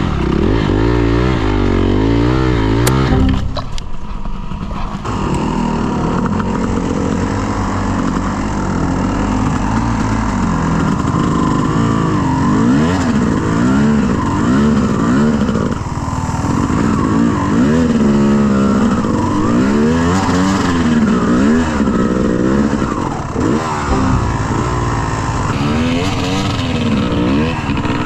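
Dirt bike engine revving up and down again and again under throttle, its pitch rising and falling every second or two.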